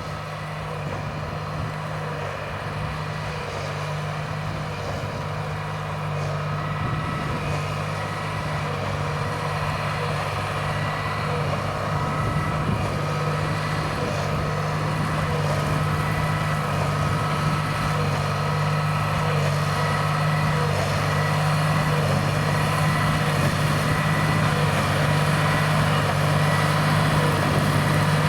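John Deere 8330 tractor's six-cylinder diesel running steadily under load while pulling a Krone BigPack square baler, with a steady machinery whine over the engine drone. It grows gradually louder as it draws nearer.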